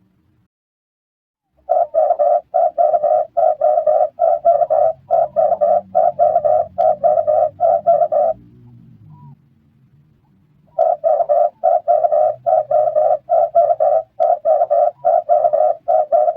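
Red turtle dove cooing in rapid, evenly spaced runs of rough coos, about two and a half a second. One run starts a couple of seconds in and breaks off about halfway through, and a second run begins after a short pause.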